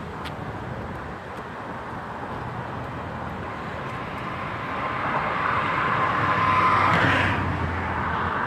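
A car passing on the road, its noise swelling to a peak about seven seconds in, then falling away.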